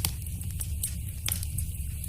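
Fire in a fireplace crackling: irregular sharp snaps and pops over a low steady rumble.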